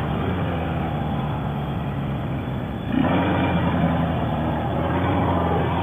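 Motorcycle engine running steadily under way, getting louder about three seconds in.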